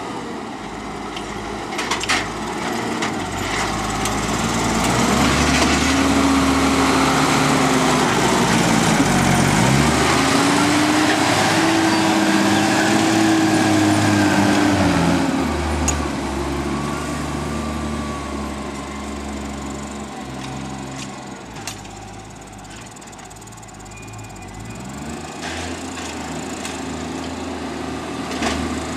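Farm tractor engine working, growing louder, its pitch dipping and recovering about ten seconds in, then fading away and building again near the end, with scattered sharp clicks and knocks.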